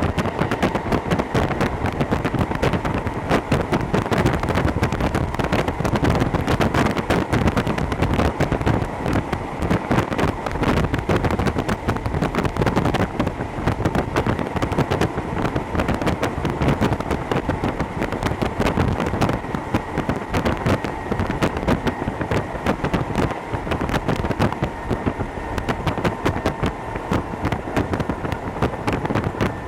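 Running noise of a Hokuso Railway 7260 series electric train heard from inside the car at speed. It is a dense, steady rumble and clatter of wheels on rail, with a faint steady whine held throughout.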